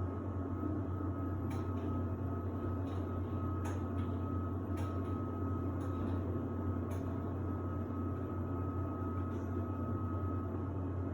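Samsung WD70T4047CE washer-dryer running in its drying phase: a steady low hum from the drum and drying fan with a thin, steady high whine over it, and a few faint clicks from inside the turning drum.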